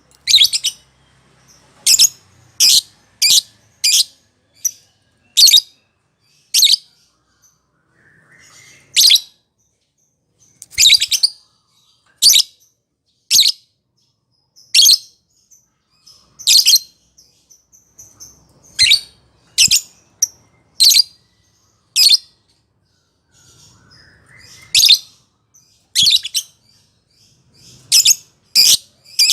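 Lovebird giving short, high-pitched chirping calls, roughly one a second with some in quick pairs.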